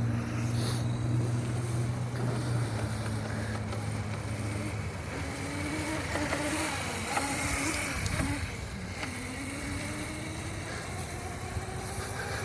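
Razor MX350 electric dirt bike's motor and chain drive whining as it rides. The whine holds a steady pitch for the first few seconds, then wavers up and down with the bike's speed.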